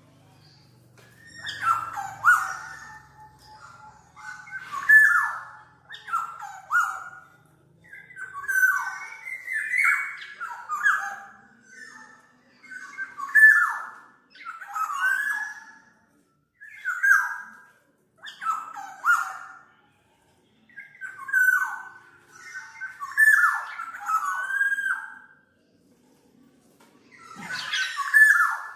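Black-naped oriole calling over and over: short calls that slide down in pitch, one every second or two, sometimes two or three run together.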